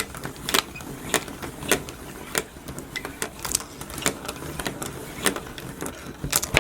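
Wooden marble run mechanism running with steel ball bearings: a continuous clatter of balls rolling and dropping through the wooden track and lift, with louder clicks at a steady pace of somewhat under two a second.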